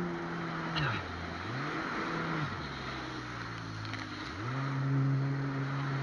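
Jet ski engine revving up and dropping back several times as it rides over waves, the pitch climbing and falling in swells of a second or two, over a steady rush of water and wind.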